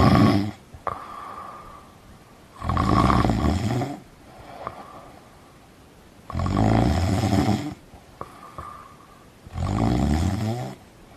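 A person snoring in sleep with a slow, even rhythm: four loud snores, about one every three and a half seconds, each lasting a second or more, with a softer sound between them.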